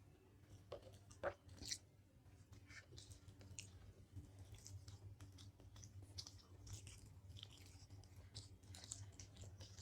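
Faint chewing: soft, scattered mouth clicks and small bites over a low steady hum.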